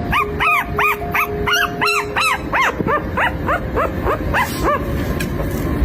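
Puppy yelping and crying in a rapid run of short, high cries, about three a second, which die away near the end.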